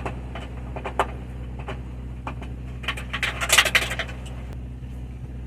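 Small metal parts clicking and then clattering in a quick run of clinks, from the spring-loaded bolts of an RV roof air conditioner's ceiling shroud being taken out by hand. A steady low hum runs underneath.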